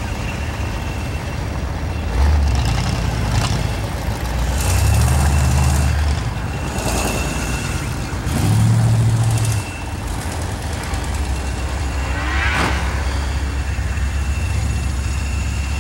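Race car engines running on an ice track, with a steady low drone and three louder surges of engine noise, about two, five and nine seconds in, as cars rev and pass.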